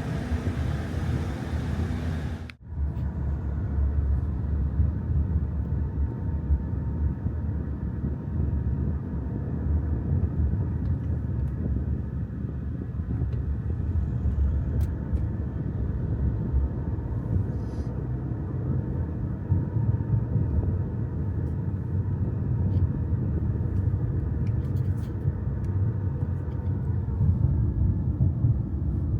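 Steady low rumble with no clear tones, with a sudden break about two and a half seconds in.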